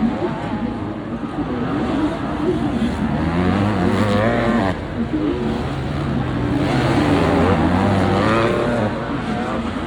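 Several 250cc four-stroke MX2 motocross bikes racing, their engines revving up and down with gear changes and overlapping as they pass.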